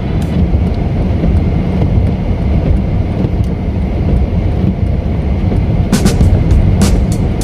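Steady low rumble of a car's engine and tyres heard from inside the cabin while driving on a snowy road, with a few sharp clicks about six seconds in.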